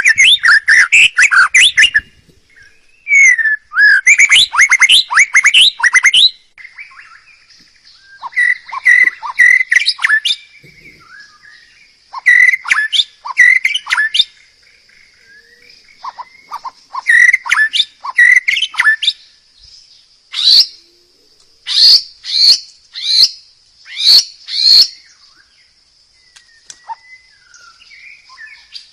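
A songbird singing in bursts of fast, varied whistled phrases with short pauses between them, then a run of loud separate notes near the end. A steady high-pitched hiss runs under the song from about a quarter of the way in.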